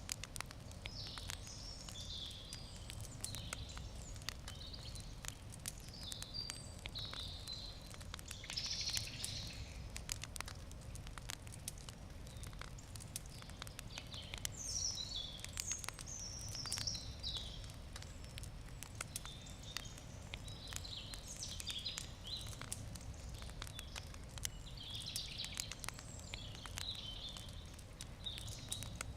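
Campfire wood crackling with frequent sharp pops, while birds sing in short chirping phrases in the background, over a low steady rumble.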